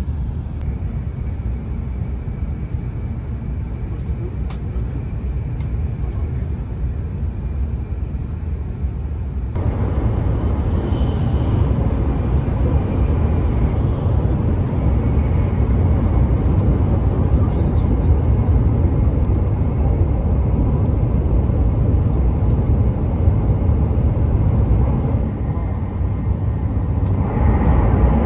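Steady low rumble of a Shinkansen bullet train running at speed, heard from inside the passenger cabin. It steps up louder about ten seconds in.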